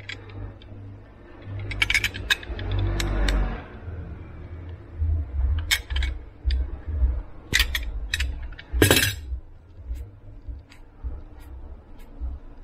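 Handling noises of small hard parts: a scattered series of sharp clicks and clinks over low bumps, with one louder, longer rasp about nine seconds in.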